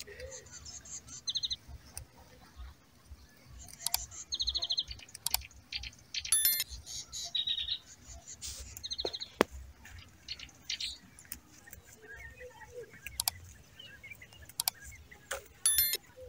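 Wild birds chirping and trilling in a farm field: many short, high calls and quick trills, with a few sharp clicks in between.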